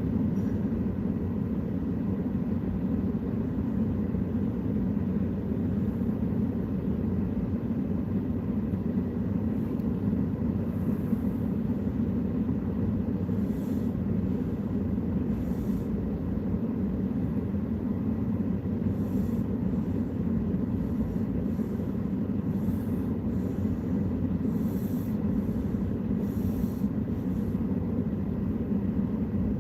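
Steady low rumble of a vehicle, even in level throughout with no starts or stops.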